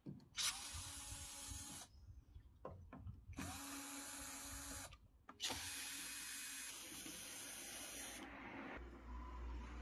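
Power screwdriver run three times in short bursts, its motor whine spinning up, holding and winding down each time, the third run the longest. A low hum starts near the end.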